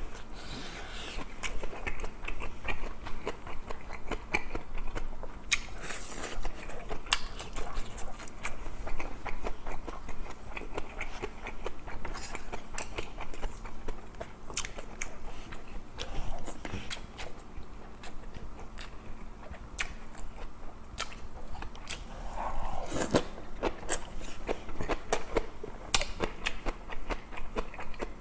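Close-miked chewing and biting of a person eating grilled fish and kimchi, with wet mouth clicks and smacks scattered throughout.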